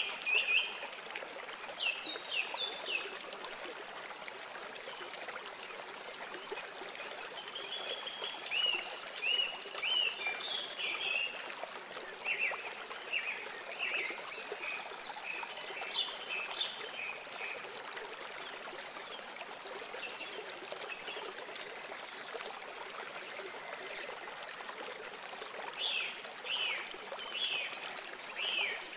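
Birds chirping with many short, quick calls, some in rapid runs of three or four notes, over a steady hiss.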